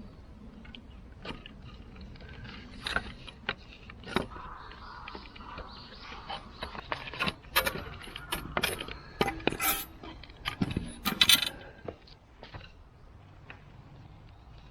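Irregular clicks, clinks and knocks of small hard objects being handled, busiest in the middle of the stretch, some with a bright metallic ring.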